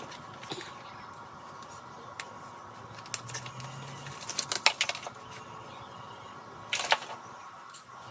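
Scattered plastic clicks and handling sounds from a VR headset and its parts being handled, with a quick run of clicks about four and a half seconds in and a short scrape near the end.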